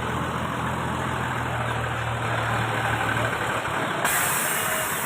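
A motor vehicle's engine idling with a steady low hum that fades about three seconds in, over a hiss of outdoor noise that suddenly brightens near the end.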